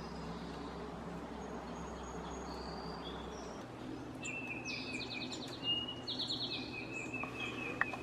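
Songbirds calling over steady outdoor background noise. About halfway through a rapid high trill comes twice, alongside a longer high call, and a sharp click sounds near the end.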